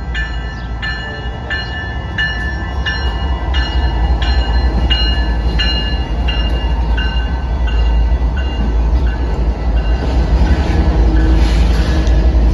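Freight train passing, its locomotives and cars making a low rumble that grows louder toward the end. Over it a bell rings in steady strokes, about three every two seconds, fading away after about nine seconds.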